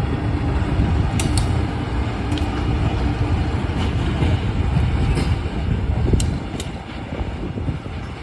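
A railway train running along the track: a heavy, steady low rumble with a few sharp clicks, easing off near the end.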